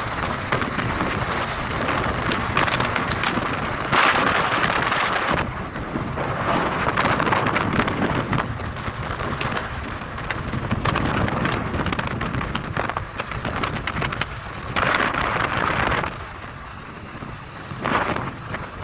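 Wind rushing over the microphone of a moving motorcycle, with road and engine noise underneath, swelling louder about four seconds in and again near fifteen seconds.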